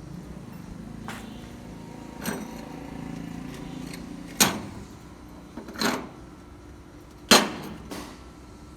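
Metal knocking and clanking, five separate sharp knocks with a short ring, the loudest about three quarters of the way through, over a steady low machine hum.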